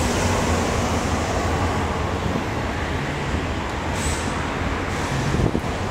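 Steady low rumble of a moving vehicle, with a short hiss about four seconds in.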